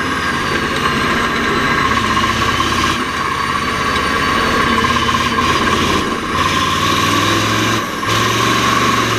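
Mack R-series V8 diesel truck engine running steadily, its sound dipping briefly about three, six and eight seconds in.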